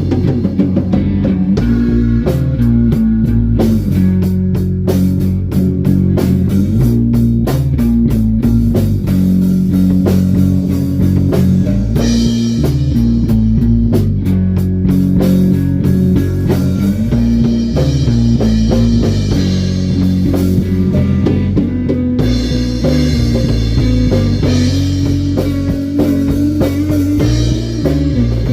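Rock band jamming: guitar riffs over a drum kit, with cymbals growing brighter about twelve seconds in and again near twenty-two seconds.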